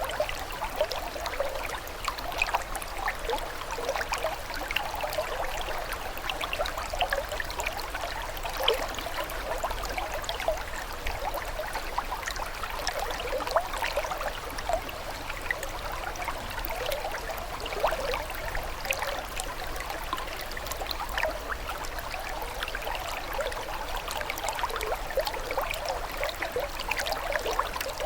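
Running water trickling steadily, with a constant patter of small splashes and bubbles.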